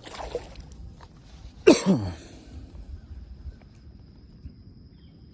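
A man's short throaty cough about two seconds in, falling in pitch, after a softer breathy sound at the start.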